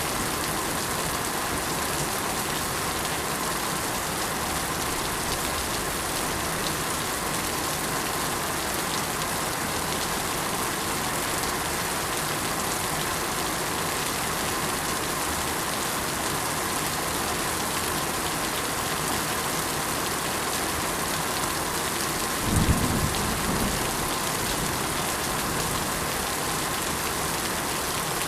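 Steady rain falling, an even hiss, with a short low rumble about three-quarters of the way through.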